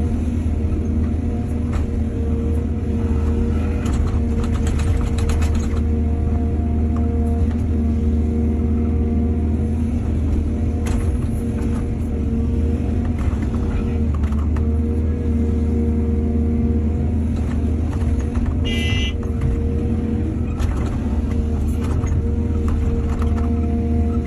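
Heavy diesel engine of an excavator running steadily under work, with a few short clanks and scrapes and a brief high squeal about three quarters of the way through.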